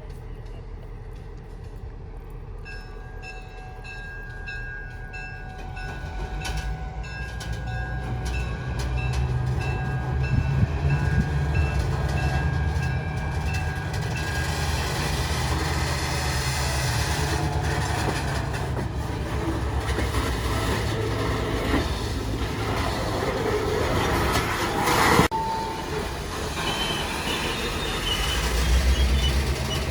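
Train horn sounding as a train approaches, followed by the rumble of the train passing, growing louder and staying loud, with a thin wheel squeal near the end.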